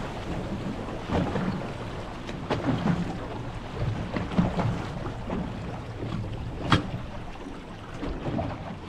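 Water lapping and slapping against the hull of a small fishing boat sitting on the water, with wind on the microphone and a few short knocks, the sharpest about two-thirds of the way through.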